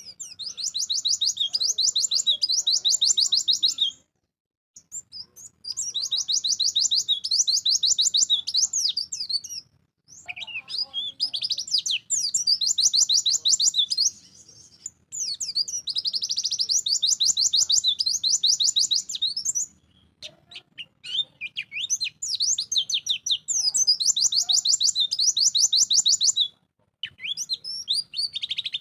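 White-eye (pleci) singing vigorously in about six long bursts of very rapid, high trilled notes, with short pauses between the bursts.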